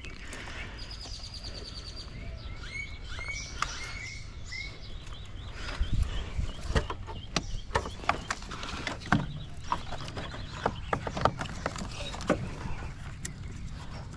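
Birds chirping and trilling for the first few seconds, then a run of irregular sharp clicks and light knocks, like parts and wiring being handled.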